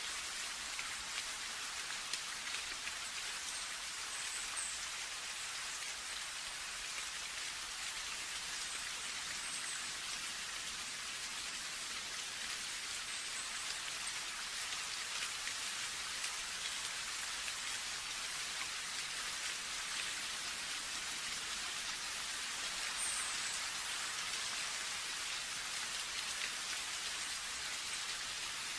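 Steady rain falling, a dense even hiss of drops that does not let up.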